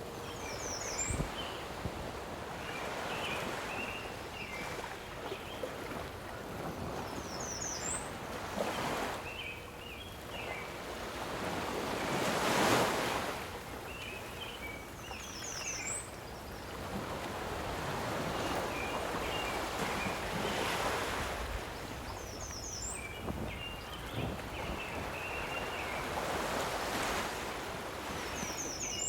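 Lake waves washing against the shore, swelling and fading, with some wind. A short high chirping call repeats about every seven seconds.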